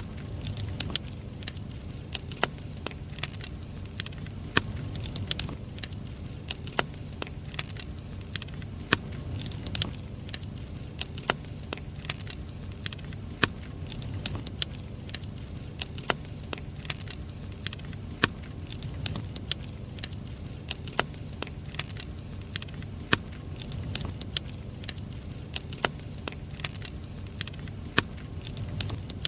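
Firewood burning, crackling with sharp, irregular snaps several times a second over a low steady rumble.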